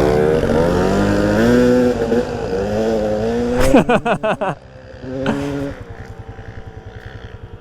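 Two dirt bikes accelerating hard in a drag race, their engine pitch climbing and dropping again and again as they shift up through the gears. About four seconds in the sound falls away to a quieter, steadier engine note.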